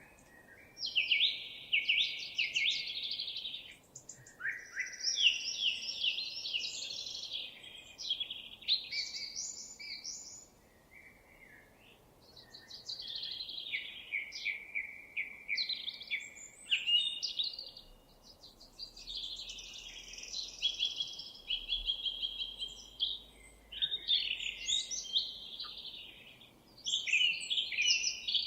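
Songbirds singing: a near-continuous run of high, quickly varying song phrases with short pauses between them.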